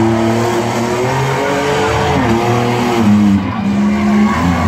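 Demolition derby minivans' and cars' engines revving hard, several engines at once, their pitch stepping and gliding up and down.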